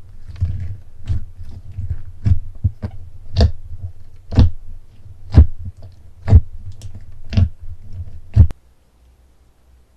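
Slime being pressed and poked by hand, giving a run of sharp, wet pops and clicks, the loudest about once a second. They stop about eight and a half seconds in.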